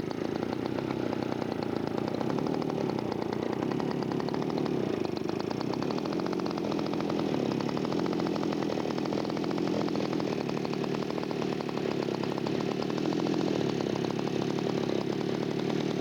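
Radio-control scale model airplane engine running steadily, its pitch wavering a little up and down.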